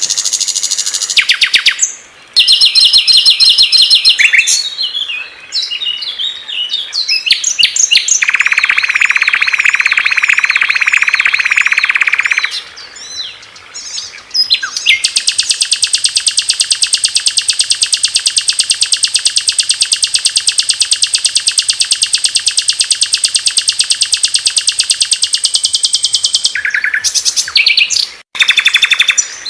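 Recorded songs of several small songbirds, spliced one after another: loud, high, fast trills and chattering phrases that change abruptly, including one long, even, rapid trill lasting about ten seconds in the second half.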